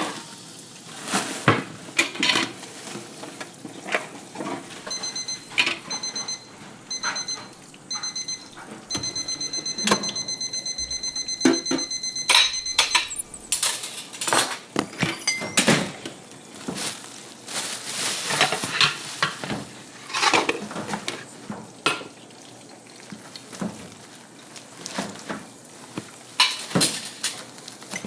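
Irregular clattering and clinking knocks, like dishes and cutlery being handled, throughout. An electronic beeper sounds four short beeps about a second apart, then a fast run of beeps for about four seconds.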